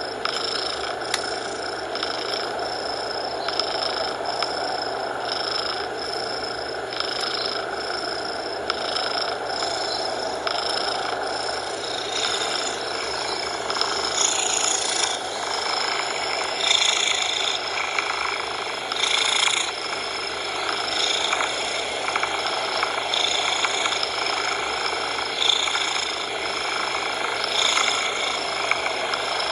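Domestic cat purring, its rhythm rising and falling about once a second, over a steady hiss of coloured noise.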